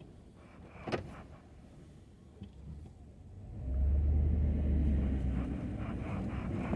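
Ford F-250 pickup's engine running low, with a sharp click about a second in, then revving up about three and a half seconds in and pulling steadily as the truck gets under way.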